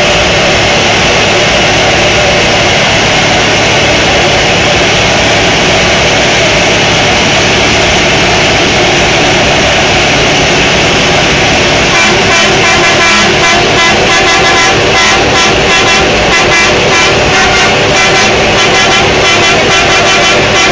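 Scania V8 truck engine (530 hp) running hard at high revs during a burnout, its drive tyres spinning. About halfway through it gets louder, with a rapid, even pulsing and a stronger pitched tone.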